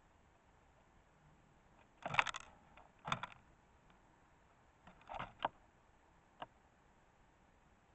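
A bird moving about on a feeder close to the microphone: short bursts of scraping and tapping, about two, three and five seconds in, then a single sharp click. No song or calls.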